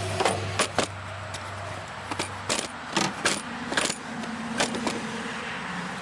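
Irregular metallic clicks and clinks of hands and tools working stuck fuel injectors loose from a Mazda Miata's fuel rail.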